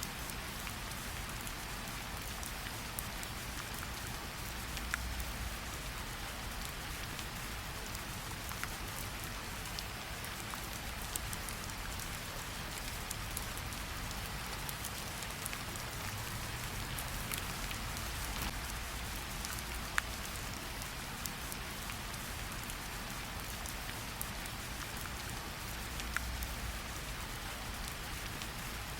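Steady rain falling, an even hiss with many scattered sharp ticks of individual drops landing.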